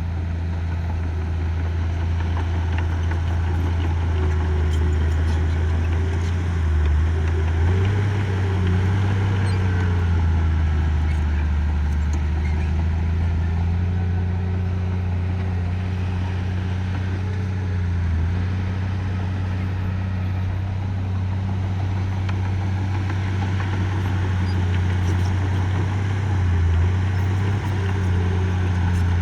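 Diesel engine of heavy earthmoving machinery running steadily, its engine speed shifting a few times. Faint clicks and rattles sound over it.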